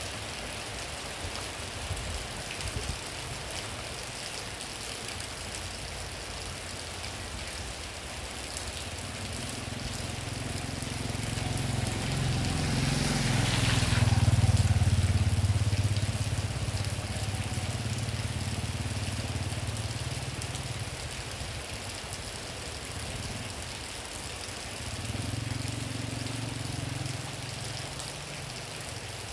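Steady rain falling, with a motor vehicle's engine hum rising as it passes by about midway and fading away; a fainter engine hum comes and goes near the end.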